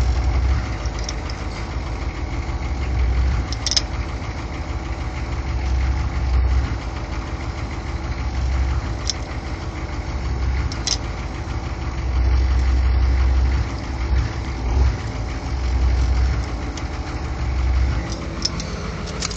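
Chevy K5 Blazer's IDI diesel V8 running at idle, with a low groan that swells and fades every second or two. The owner puts the groan in the SM465 transmission and clutch throwout bearing and does not know its cause.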